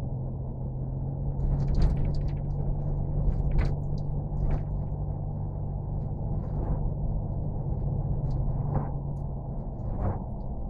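A steady low mechanical drone, like a running motor, with scattered knocks and clicks over it, the loudest a cluster about two seconds in.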